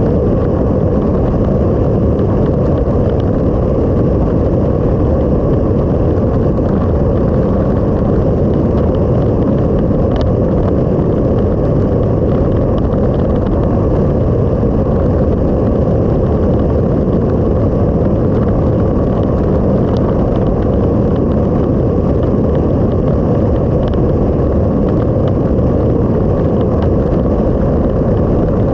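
Steady, loud wind rumble and road noise from a motorcycle on the move, picked up by a camera mounted on the bike, with no clear engine note above the wind.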